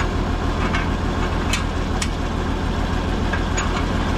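Tractor engine running steadily, with a few short sharp clicks about one and a half to two seconds in.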